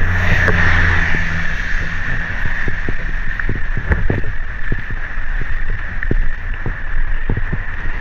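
A steady rush of pouring rain and running water from the nearby waterfall and stream, with irregular sharp taps throughout.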